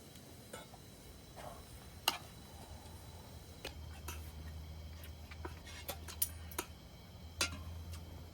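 Occasional light clinks of cookware and utensils, about eight scattered over several seconds, with a low steady hum underneath from about halfway in.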